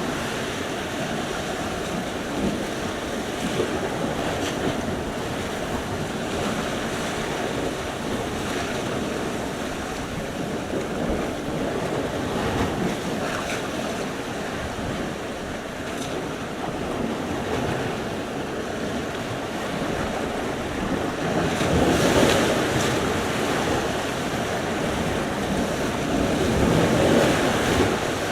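Sea surf: waves breaking and washing on the shore in a continuous rush that swells and eases, with louder surges about three-quarters of the way through and again near the end.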